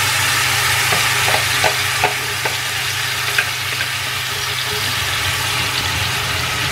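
Blended chili, shallot, garlic and tomato paste frying in hot oil in a stainless steel pan: a loud, steady sizzle that eases slightly as it goes. There are a few light knocks in the first half, and a steady low hum underneath.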